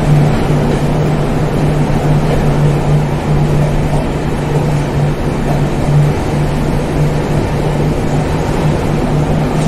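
Mandovi Express passenger train running at speed through a tunnel: a loud, steady rumble of wheels on rail and rushing air, with a low pulsing hum underneath.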